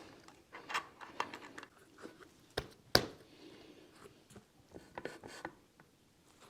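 Scattered sharp clicks and light metal knocks of axle spacers and wheel hardware being handled and fitted onto a bicycle front wheel axle, the loudest click about three seconds in.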